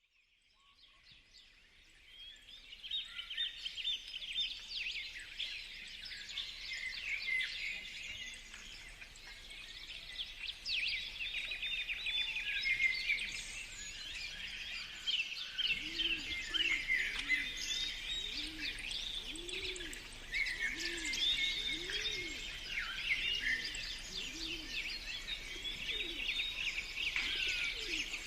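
A dense chorus of many birds chirping and trilling together, fading in over the first few seconds. From about halfway through, a low, repeated note that rises and falls joins in, roughly once a second.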